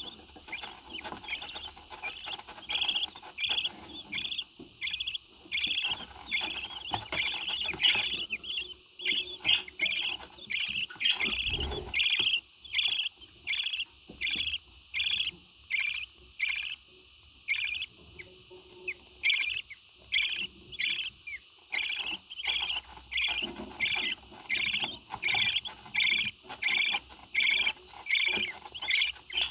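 A parrot calling over and over: short, high chirps repeated at an even pace of nearly two a second, with a brief pause about two-thirds of the way through.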